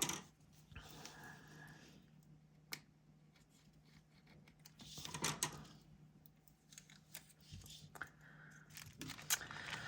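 Faint rustling of paper and sticker sheets being handled, with a few light clicks and taps; the loudest rustle comes about five seconds in.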